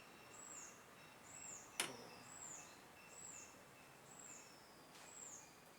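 Faint high chirps repeating evenly about once a second over a thin steady high tone, an outdoor bird or insect call. A single sharp click sounds just before two seconds in, with a fainter one near the end.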